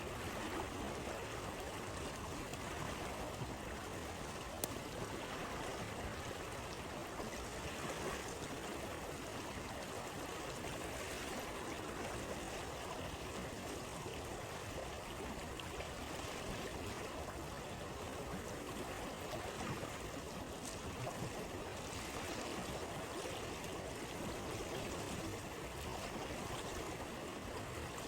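Steady rushing of a flowing stream, with occasional sharp pops from a crackling campfire, the loudest about four and a half seconds in.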